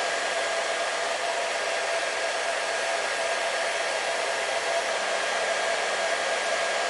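Hair dryer running steadily: a constant whooshing airflow with a steady whine from the motor and fan.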